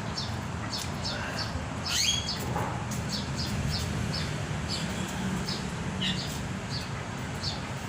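Caged birds chirping: short high chirps repeating about twice a second, with one sweeping call about two seconds in, over a steady low hum.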